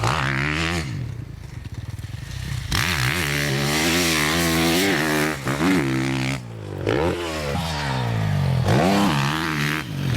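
Motocross bike engine revving hard on the track, its pitch climbing and falling back again and again as the throttle is opened and shut, with rattle and scrape mixed in.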